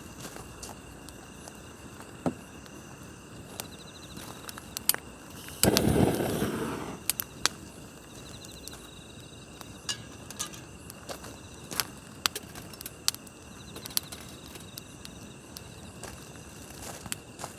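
Wood campfire crackling with scattered sharp pops, over a steady chorus of crickets. About six seconds in, a louder rushing burst from the fire fades out over a second or so.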